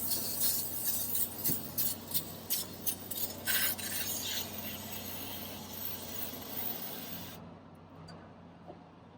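Repeated rasping, scrubbing strokes over a hiss, as the hydraulic system's dirty filter is scrubbed to clean the muck off it; the scrubbing stops abruptly about seven seconds in.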